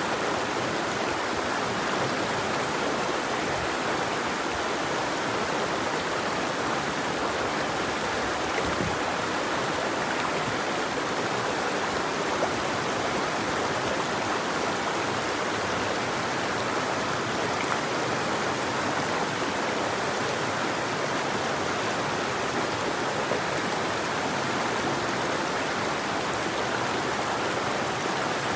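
River water flowing steadily, an even, unchanging sound of running water with no birdsong.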